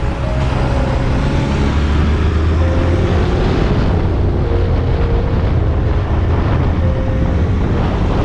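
A steady low engine drone under a continuous rush of wind and noise.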